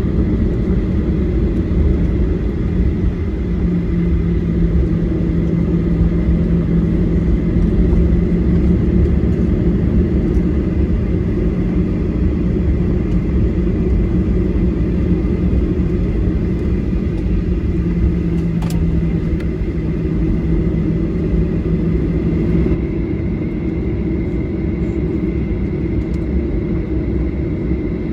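Steady low rumble of a Boeing 737-800's engines and airflow heard inside the passenger cabin, with a steady hum through most of it.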